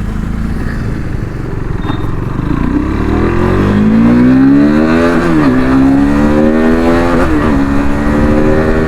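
KTM RC 390's single-cylinder engine pulling hard under acceleration, its pitch climbing, then dropping sharply with an upshift about five seconds in and another about seven seconds in, then climbing again.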